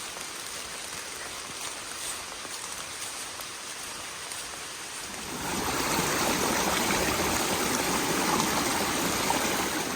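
Rushing water of a stream or cascade, a steady wash that grows markedly louder about halfway through.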